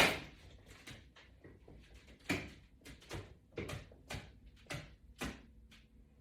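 A sharp knock at the start, then a run of lighter knocks and clacks about every half second.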